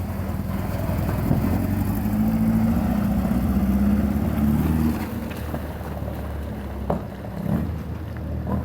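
A car engine running, louder for about four seconds from a second in and then dropping back to a quieter hum, with a few light knocks near the end.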